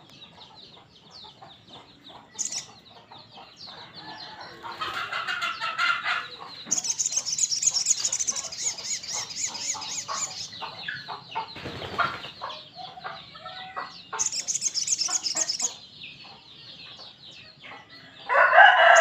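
Sogon bird calling busily in fast runs of sharp chipping notes, with bursts of high trilling about 7 and 14 seconds in. Louder crowing-like calls come around 5 seconds in and again near the end.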